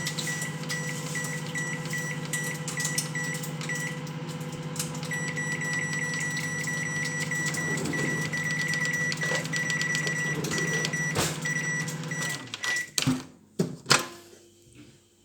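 Microwave oven running with a steady hum and a high tone, with many small crackling clicks inside it. About twelve seconds in the hum stops, and a few loud, sharp pops follow.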